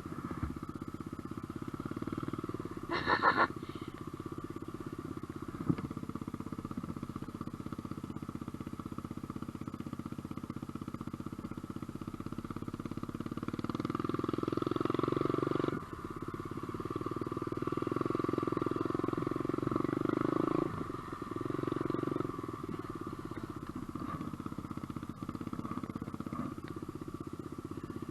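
SSR125 dirt bike's 125 cc four-stroke single-cylinder engine idling, swelling louder a few times in the second half. A short loud sound about three seconds in.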